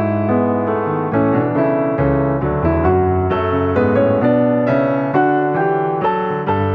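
Background music: piano playing a flowing melody over chords, notes struck several times a second.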